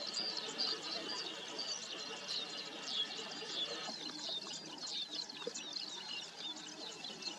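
Wild birds chirping in rapid, overlapping short high notes, many of them falling in pitch. Underneath there is a low, irregular rustle.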